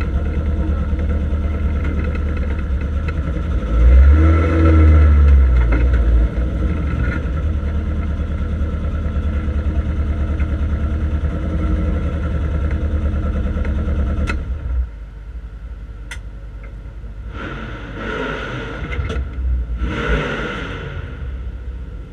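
Triumph Dolomite Sprint's slant-four race engine running at low speed, heard from inside the cabin, with a brief rise and fall in revs about four seconds in. The engine is switched off about fourteen seconds in, and a few short, quieter noises follow near the end.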